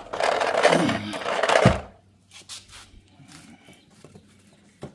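Children's things being dragged and shoved aside across the floor: a loud, noisy scrape for about two seconds, then a few light knocks and clicks.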